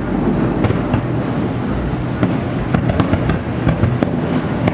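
Fireworks display: a continuous rumble of booms with many sharp cracks and crackles, the booms echoing off nearby buildings.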